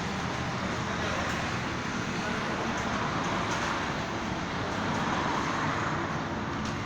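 Steady road traffic noise, one vehicle growing louder as it passes about halfway through.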